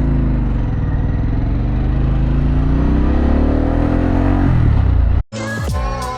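2024 Harley-Davidson Pan America's V-twin through a Vance & Hines exhaust, accelerating with its pitch climbing steadily, then dropping away near the end. The engine sound cuts off abruptly about five seconds in, and music begins.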